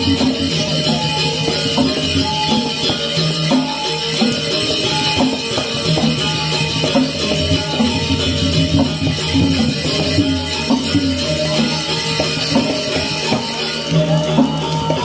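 Balinese gamelan music playing, a dense jingling shimmer of small cymbals over short, struck, pitched metal notes.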